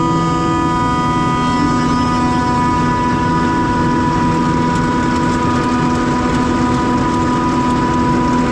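Self-propelled forage harvester chopping haylage at full load: a steady engine drone with a constant high-pitched whine from the cutterhead.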